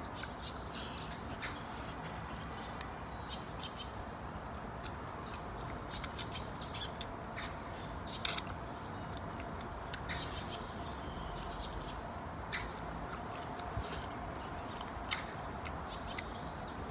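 Chewing and mouth sounds from eating fried chicken wings up close: a scattered run of short wet clicks and crunches over steady background noise, the sharpest click about halfway through.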